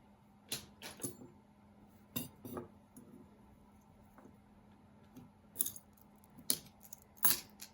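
Pieces of costume jewelry clinking and rattling against each other as they are picked through and handled: a string of short, irregular clinks, several close together at the start and the loudest few near the end.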